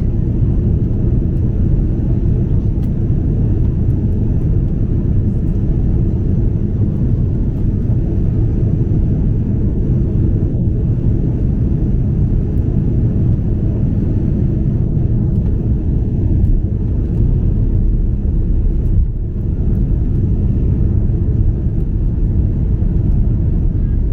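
Steady low roar of an Airbus A330-200's engines and airflow heard inside the passenger cabin in flight.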